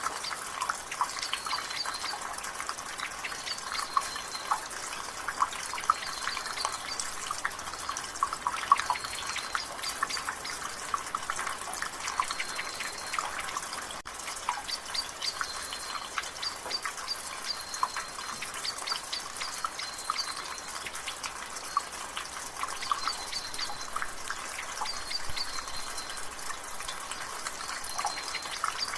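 Water dripping from a rain gutter in a quick, irregular patter of drips over a steady hiss of drizzle, with a bird chirping short high notes again and again in the background.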